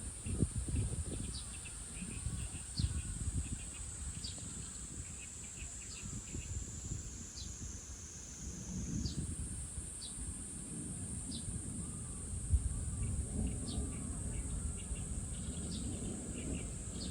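Outdoor park ambience: a steady high-pitched insect drone, short bird chirps about once a second, and an uneven low rumbling noise underneath.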